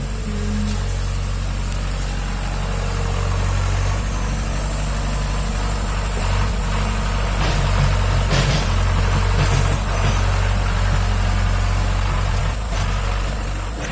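Excavator's diesel engine running steadily with a low, even hum, with a few light knocks around the middle.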